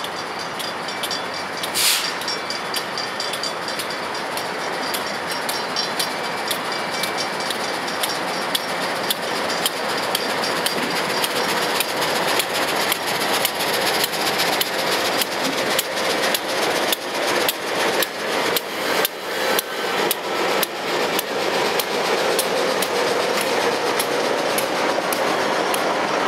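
MLW RS-18 diesel locomotive leading a passenger train past at close range, its running noise growing steadily louder. A single sharp crack comes about two seconds in. Once the locomotive and coaches are going by, the wheels click over the rail joints about twice a second.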